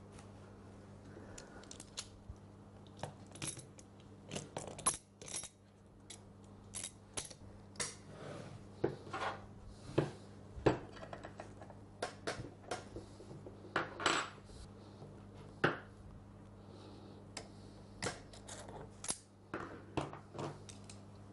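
Irregular metallic clinks, taps and knocks of small metal parts and tools being handled while a Bosch GSH 5 demolition hammer's motor is put back together, over a faint steady low hum.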